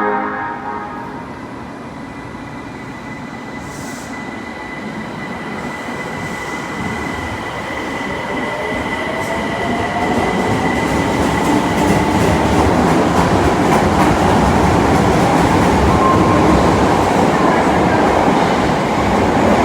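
Osaka Metro Tanimachi Line subway train pulling out of the station. Its motor whine rises in pitch as it gathers speed, and the rumble of wheels on rail grows steadily louder.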